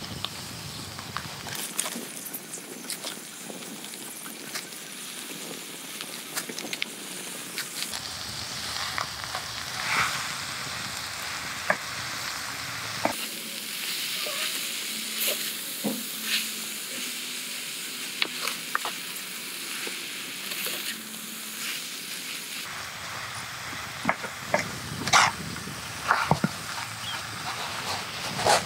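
Lizard meat and holy basil sizzling in a clay pot over a fire, with a wooden spoon knocking and scraping against the pot as it is stirred.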